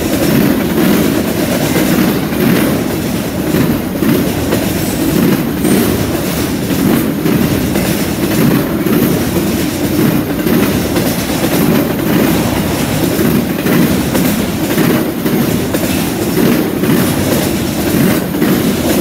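Freight train of autorack cars rolling past close by: a steady rumble of steel wheels on rail, with a regular clack about every one and a half seconds as the wheelsets cross the junction switch.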